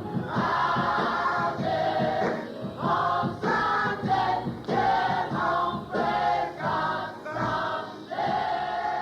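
Church choir singing over a steady beat, several voices moving through short sung phrases, then starting a long held note near the end.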